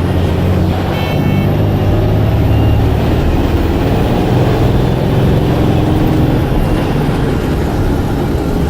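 Blue Bird All American bus engine running steadily, with a loud low hum.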